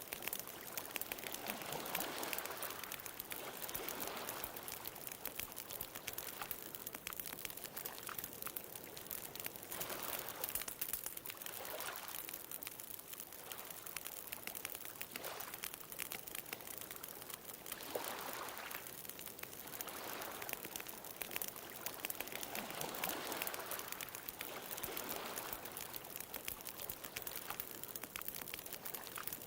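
Wood bonfire crackling with a steady spatter of small pops, over ocean waves washing in and drawing back in swells every few seconds.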